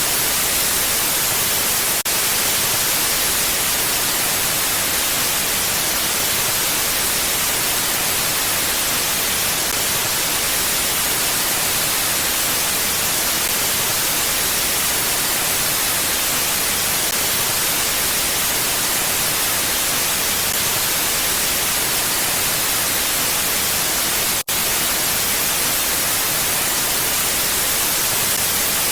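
Steady mountain wind rendered as an even, hissy rush heavy in the high end, with no gusts or changes, broken by a very brief dropout about 24 seconds in.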